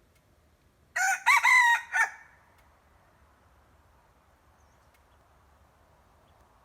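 A decoy junglefowl rooster crowing once, a short crow of about a second in three or four linked parts, starting about a second in.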